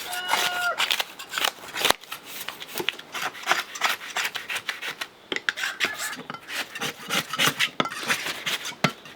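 Metal grill brush scrubbing and scraping an old wooden door frame in quick, uneven strokes.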